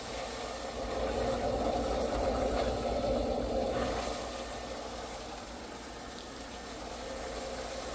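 Small Nautilus pool water pump running with a steady hum, a little louder about a second in for a few seconds, on a test run after its cracked ABS housing was repaired with epoxy resin.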